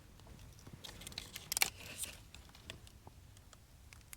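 Faint crunching and crinkling of someone eating a crispy fried egg roll with mustard, with a louder cluster of crunches about one and a half seconds in.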